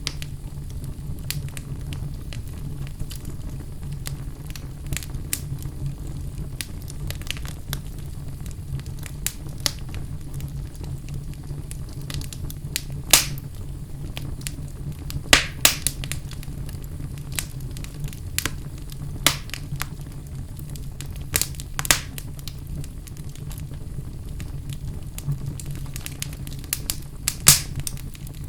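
Wood fire in a fireplace crackling: a steady low rumble of the flames under scattered sharp pops and snaps, a few louder ones about halfway through and near the end.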